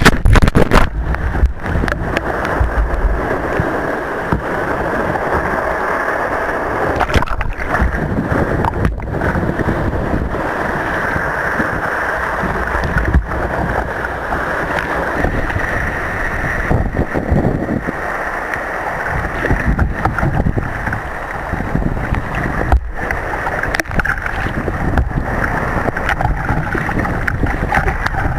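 Steady rushing and gurgling of sea water around a surf kayak riding through the waves, with wind buffeting the microphone.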